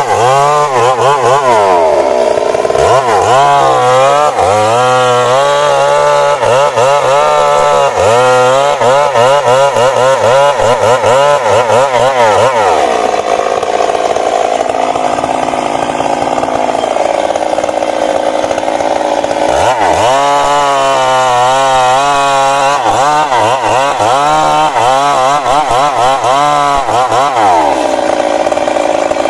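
Stihl MS 382 two-stroke chainsaw cutting wood, its engine speed sagging and picking up again over and over as the chain bites. The speed holds steadier for several seconds in the middle and again near the end.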